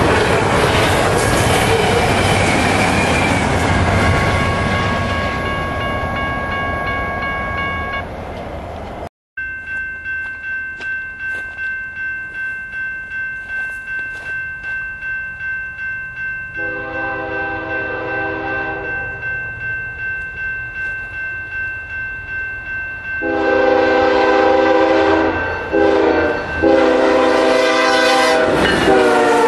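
Double-stack freight train rolling past with wheel and car noise, fading as the last cars go by. Then a grade-crossing bell rings about twice a second while a BNSF freight approaches, its horn sounding the crossing signal of long, long, short, long, and the lead locomotive passes loudly near the end.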